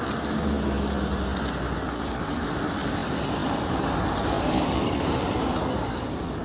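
Road traffic noise: a motor vehicle's engine running close by for the first second or so, then a steady wash of passing traffic.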